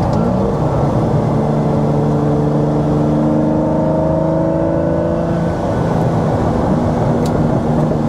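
Lamborghini Diablo's 5.7-litre V12 with a straight-piped exhaust at full throttle in second gear, heard from inside the cabin, its pitch climbing steadily for about five and a half seconds. The revs then drop off as the throttle is lifted, with a sharp exhaust crackle near the end.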